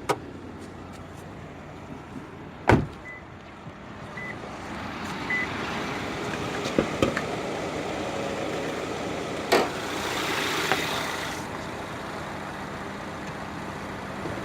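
Hood release and hood latch clunking as the hood of a 2019 Subaru Ascent is opened: a sharp clunk about three seconds in and another near the middle. Under it runs the steady hum of its 2.4-litre turbocharged four-cylinder engine idling, with a few short faint beeps early on.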